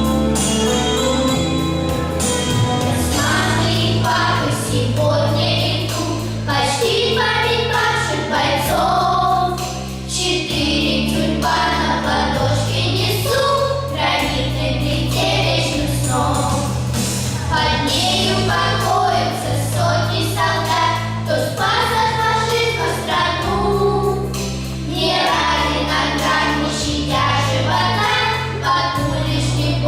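A vocal ensemble singing together over instrumental accompaniment, with a bass line of held notes that change every second or two.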